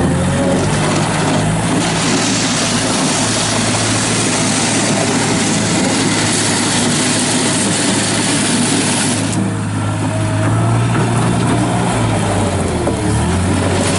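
Gehl 4835 skid steer loader's diesel engine running, a steady low drone under a broad hiss. About nine seconds in the hiss drops and the engine note comes forward for a few seconds, a change in engine speed or load.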